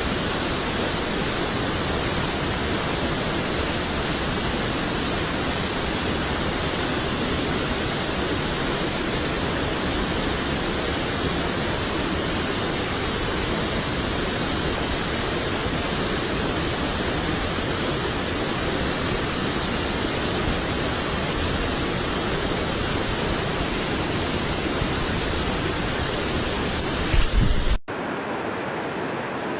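Waterfall pouring, a steady full rush of water. Near the end a brief low rumble, then the sound cuts abruptly to a quieter, duller rush of water.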